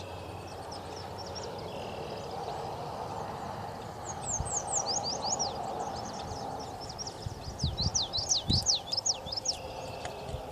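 Small birds chirping: runs of quick, high, downward-sweeping chirps, one burst about four seconds in and a denser one near eight seconds, over a steady outdoor hiss. A few low thumps near the end.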